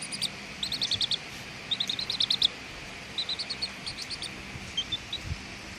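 A young chicken chick chirping: several quick runs of short, high peeps with brief pauses between them.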